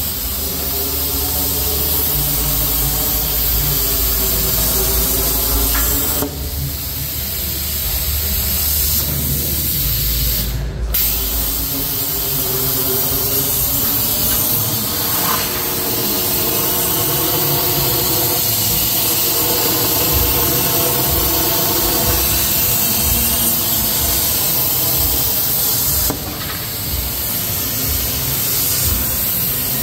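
CNC plasma torch cutting sheet metal: a loud, steady hiss of the arc and air jet with wavering tones under it, broken off briefly about eleven seconds in.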